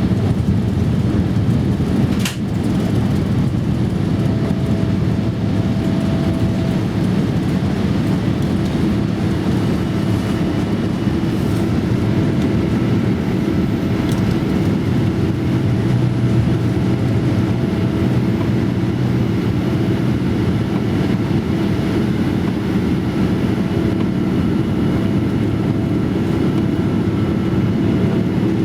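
Boeing 787-8 Dreamliner's jet engines and airflow heard from inside the cabin during the climb after takeoff: a loud steady rumble with a faint steady whine over it. A single sharp click about two seconds in.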